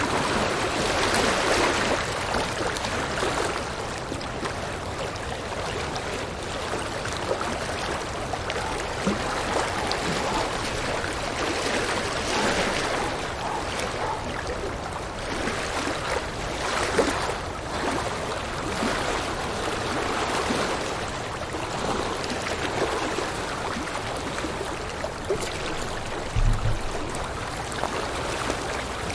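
A river or stream running over rocks: a steady rush and babble of water that swells and eases slightly, with a brief low thump near the end.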